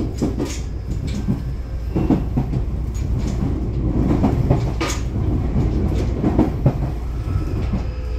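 Running sound inside a Shizuoka Railway A3000-series electric train car under way: a steady low rumble of wheels on rail, with irregular sharp clacks as the wheels cross rail joints.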